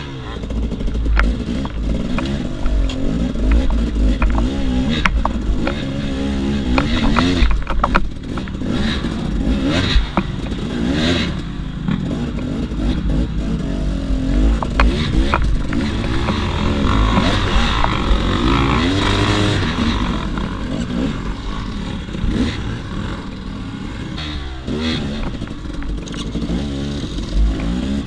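KTM 300 XC-W two-stroke single-cylinder enduro motorcycle engine revving up and down continually as it is ridden off road. Sharp knocks and clatter are scattered through the first half.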